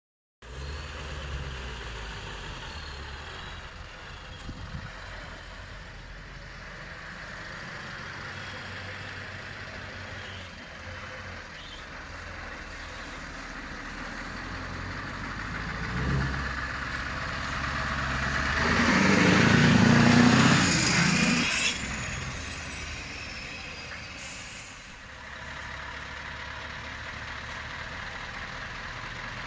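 Scania V8 truck engine running at a steady idle. About two-thirds of the way through it swells to a loud peak for a few seconds, then drops back to idle.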